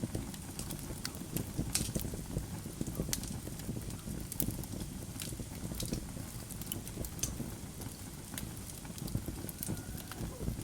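Wood fire burning in a fireplace, logs crackling with irregular sharp pops over a low steady rumble of the flames.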